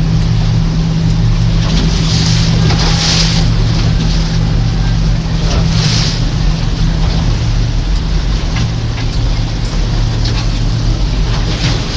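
Boat motor running steadily underway, with wind and water rushing past.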